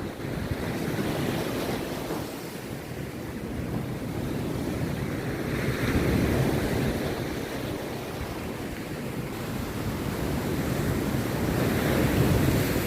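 Rough sea surf breaking on a beach, a continuous wash that swells louder about six seconds in and again near the end.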